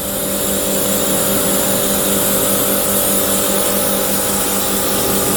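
Pressure washer running and spraying down an engine block: a steady hum from the washer's motor and pump under a loud hiss of water spray.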